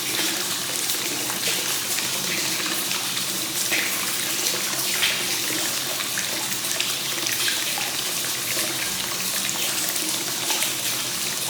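Hot spring water pouring steadily from the spout into a bath, a continuous splashing trickle with small flickering splashes.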